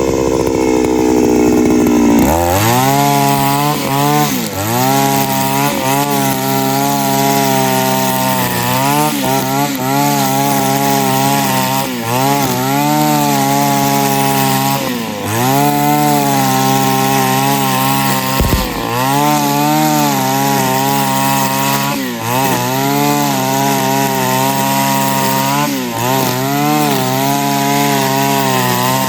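HUS 545DL backpack brush cutter's two-stroke engine running hard. Its pitch drops about two seconds in, then dips and recovers every second or two as the cutting head bites into grass under load.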